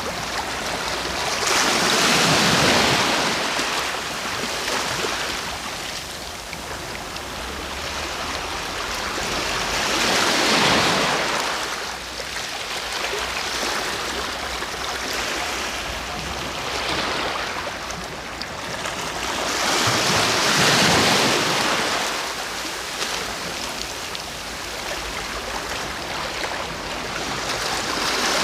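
Sea waves breaking and washing ashore, a steady wash of surf that swells into a louder break about every eight to ten seconds, three times.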